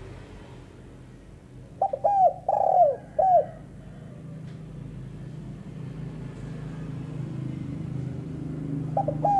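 A spotted dove cooing: one phrase of about five short, arched, falling hoots, two quick ones and then three longer, about two seconds in. The next phrase starts near the end. Offered as the call of a female tekukur.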